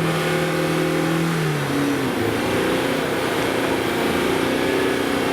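Engine of a prepared off-road competition vehicle running under load, its pitch dropping about two seconds in and then holding steady.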